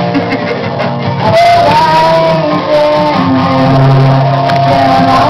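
Live guitar and singing: a vocal line of long held notes that slide between pitches, over steady guitar accompaniment.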